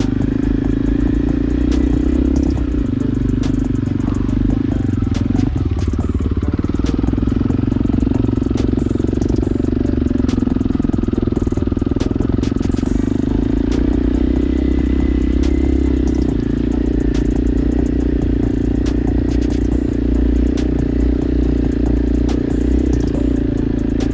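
Motorcycle engine running steadily while riding, with scattered clicks and knocks over it.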